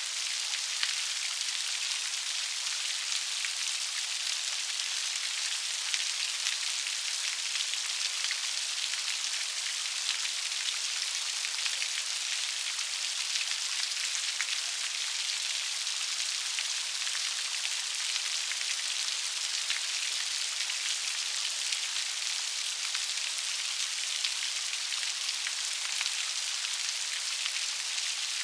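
Steady rain: a continuous hiss of falling rain, full of fine, close raindrop patter.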